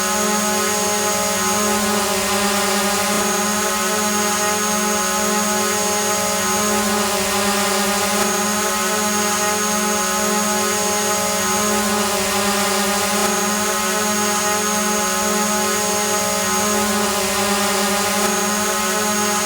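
A drone hovering: its motors and propellers give a steady, even whine made of several held tones, with a thin high whistle that drops out briefly about every five seconds.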